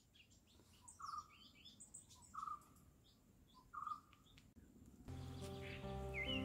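Faint bird calls: three short, clear notes about a second and a half apart, with softer high chirps between them. Background music with held tones comes in about five seconds in.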